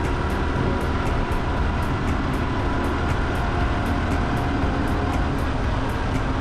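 Small motorcycle riding along with its engine running steadily, and low wind rumble on the microphone.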